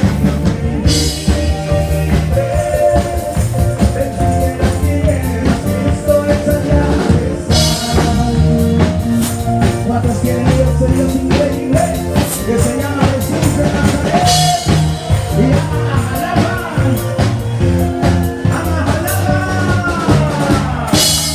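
Live praise band music with a drum kit keeping a steady beat, and bright crashes swelling about every six or seven seconds.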